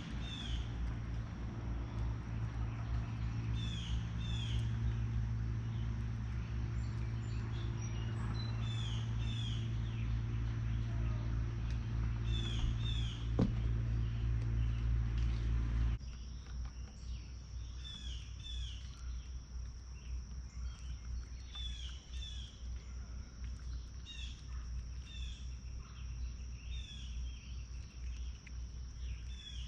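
A songbird repeating a short two-note chirp every second or two. A low steady hum runs under the first half and cuts off about halfway, after which a steady high insect drone is heard.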